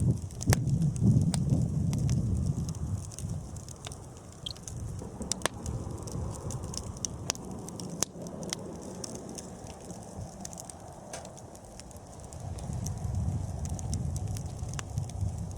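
Wood campfire crackling, with scattered sharp pops over a low rumble. The rumble is strong for the first few seconds, drops away, and swells again near the end.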